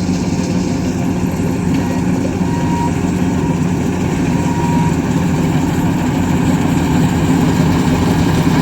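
Heavy diesel farm-machine engine running steadily at a constant speed, with no change in pitch.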